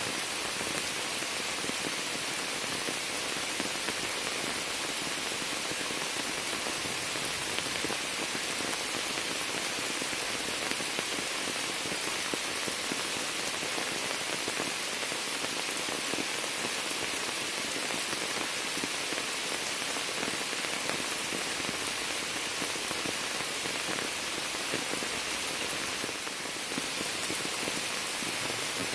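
Steady rain falling into a sheet of standing water and onto shrub leaves: a dense, even hiss of countless small splashes that holds unchanged throughout.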